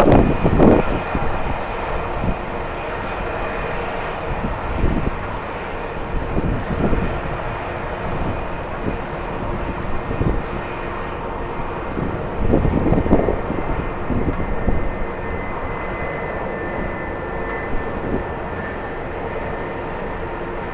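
Jet airliner engines running steadily with a faint whine, while gusts of strong wind buffet the microphone, the strongest at the start and about two-thirds of the way in.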